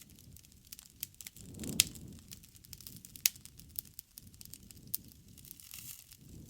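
Campfire of burning wood crackling: many irregular sharp pops and snaps over a low, uneven rumble of the flames. The rumble swells a little under two seconds in, along with the loudest pop, and another loud pop comes just past three seconds.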